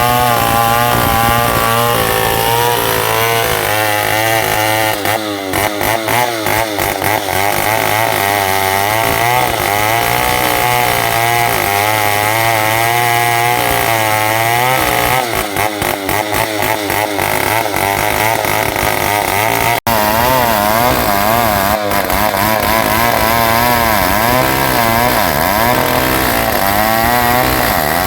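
New West 707 two-stroke chainsaw ripping lengthwise through ulin (Bornean ironwood) under heavy load, its engine note wavering up and down as it works the cut. Twice the note turns choppy and stuttering for a couple of seconds.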